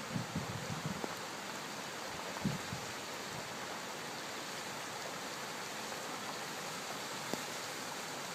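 Steady rush of flowing floodwater, with a few low bumps in the first second and another about two and a half seconds in.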